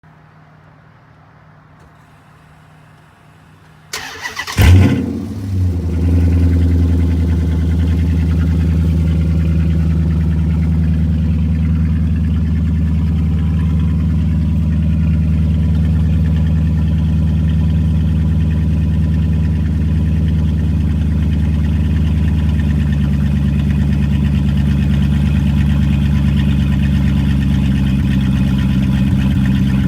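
Cold start of a 2006 Dodge Magnum R/T's 5.7 Hemi V8, exhaust with the mid muffler and resonator deleted: after a few quiet seconds the starter cranks briefly, the engine catches with one loud flare, then settles into a steady, loud idle.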